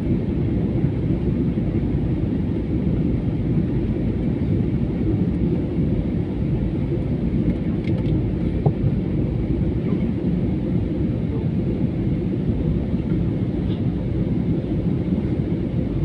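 Steady low rumble of an airliner's engines and rushing air, heard from inside the passenger cabin in flight.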